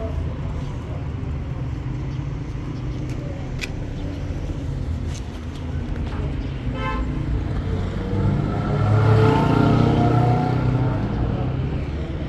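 City street traffic with vehicles running steadily, a brief car horn toot about seven seconds in, and louder traffic from about eight to eleven seconds.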